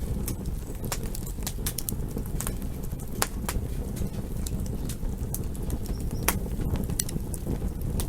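Campfire burning: a steady low rumble of flames with frequent irregular crackles and sharp pops from the wood, the loudest pop about six seconds in.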